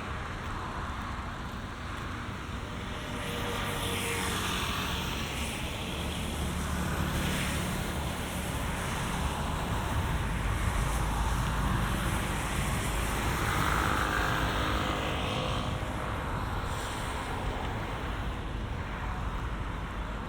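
Road traffic passing, cars swelling and fading one after another over a steady rumble of wind on the microphone.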